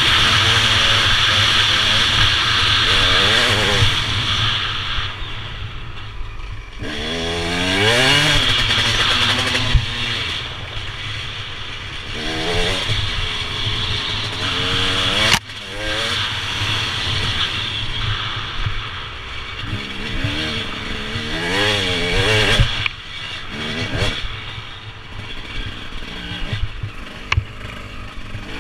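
Motorcycle engine revving up and falling back again and again while riding, over a steady rushing noise. There is a sharp knock about halfway through.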